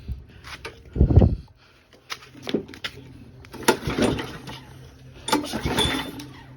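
Knocks and clatter from handling parts of a gas push mower, with one heavy thump about a second in and short bursts of rattling later. The engine is not running.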